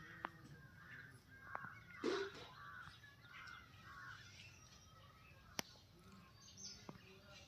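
Faint chorus of bird calls, crows cawing among them, with a louder call about two seconds in and a few sharp clicks.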